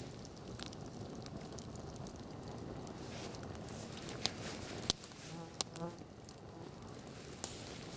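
Campfire crackling, with scattered sharp pops over a low steady rustle; the two loudest pops come a little past the middle. A short buzzing hum sounds for under a second soon after.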